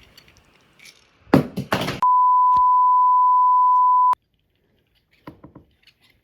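A steady electronic bleep at one pitch, about two seconds long, starting and stopping abruptly, just after a brief burst of voice.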